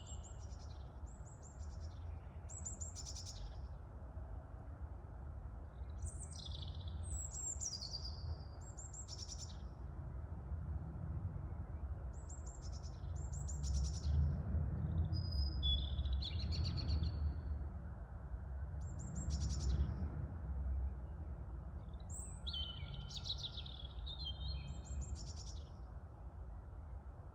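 Small birds chirping and calling in short repeated phrases, some falling in pitch, over a low rumble of wind that gusts up twice around the middle.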